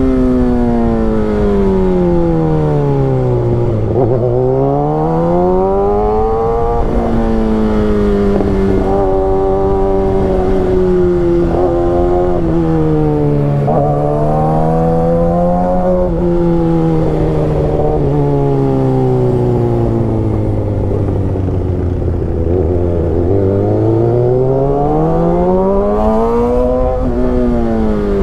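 Kawasaki ZX-6R sport bike's inline-four engine on the road, its revs sweeping with the throttle. It winds down, climbs again about four seconds in, steps through a few gear changes, sinks to low revs around twenty seconds in, then climbs again near the end.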